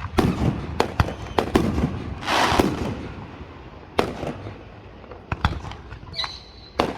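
Fireworks going off: a quick, irregular run of sharp bangs and cracks, with a hissing burst of noise about two seconds in and a brief high whistle near the end.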